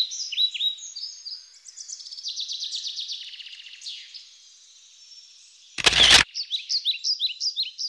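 Songbirds chirping: quick repeated down-slurred chirps, a fast trill, then more chirps. About six seconds in, a single short, loud camera-shutter click.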